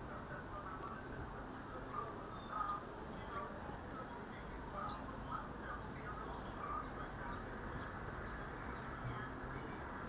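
Wild garden birds chirping and calling: many short, scattered notes, busier in the first half, over a steady background hiss.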